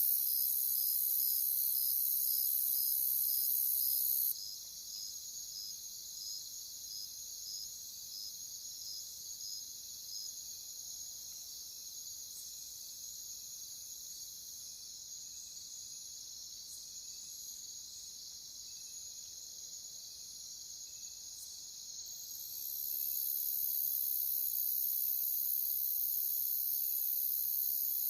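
Crickets chirping in a steady, shrill chorus, with a slower regular chirp pulsing through it about twice a second. A higher layer of the chorus cuts out about four seconds in and comes back near the end, leaving the middle quieter.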